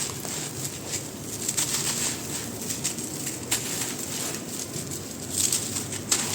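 Dry, moulded black grainy sand shapes being crushed and crumbling, with an irregular run of crackles and sharp crunches; the loudest crunches come near the end.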